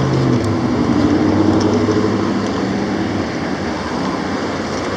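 Street traffic with a nearby vehicle engine humming. The engine is loudest for the first three seconds, then eases off into the steady traffic roar.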